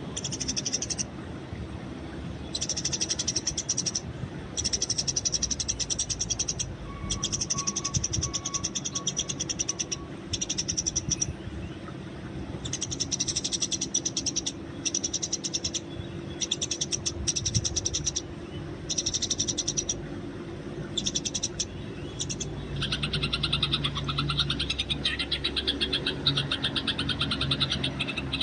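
Eurasian tree sparrows chattering in rapid bursts of high chirps, each burst a second or two long with short pauses between. The chattering becomes denser and more continuous near the end.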